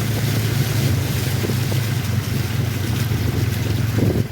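Engine running steadily with a constant low hum, with wind rushing over the microphone.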